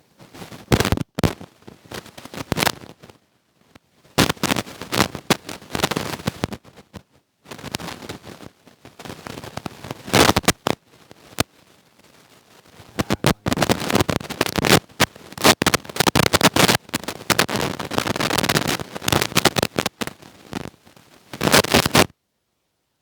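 Loud, close rustling and crackling in irregular bursts with short pauses, cutting off suddenly near the end.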